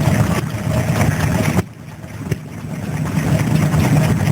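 A small vintage stationary engine running steadily. About a second and a half in the sound drops away suddenly, then builds back up to full over the next two seconds.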